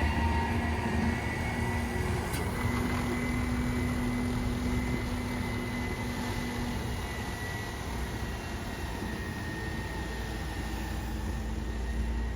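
Garbage truck engine running steadily, a low rumble with a faint whine that stops a little over halfway through.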